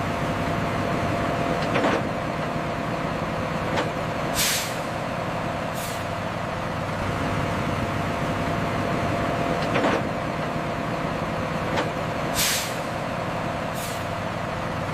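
Heavy vehicle engine running steadily, with short air-brake hisses in two pairs, the second pair coming about eight seconds after the first, and a few faint clicks.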